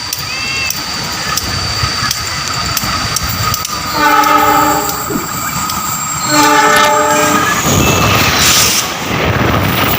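Train approaching with a steady rumble, its locomotive horn sounding two chord-like blasts of about a second each, a little over two seconds apart. Near the end a loud rushing noise with wheel clatter builds as the train comes through.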